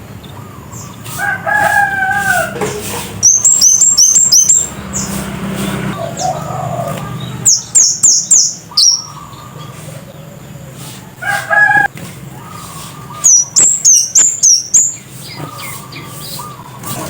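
Scarlet-headed flowerpecker singing in loud runs of rapid, sharp, very high 'cit' notes, three runs of about five to eight notes each. Another bird gives a lower, drawn-out call twice, and a steady low hum lies underneath.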